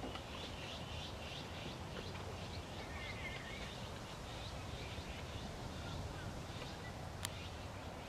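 Birds calling with many short, high chirps over a steady low background rumble, with one sharp click about seven seconds in.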